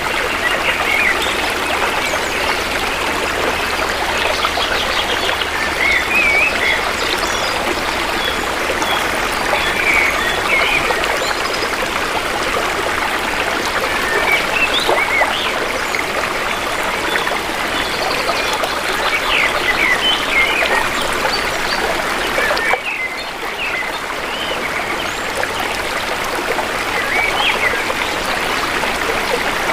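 Shallow river water flowing in a steady rush with many small bubbling gurgles. The sound dips suddenly about three-quarters of the way through, then picks up again.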